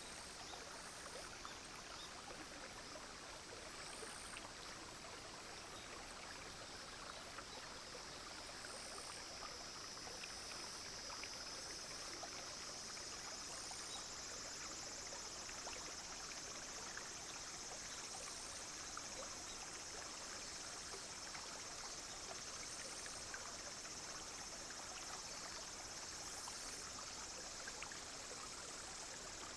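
A clear, shallow stream running and trickling steadily, with insects calling over it: short high calls repeat every two to three seconds, and a steady high insect drone comes in about a quarter of the way through.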